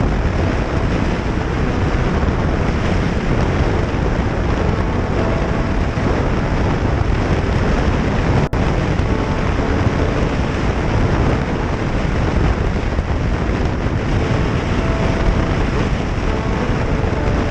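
Steady wind rushing over the microphone of a moving motorcycle, with the engine running underneath. A brief dropout about eight and a half seconds in.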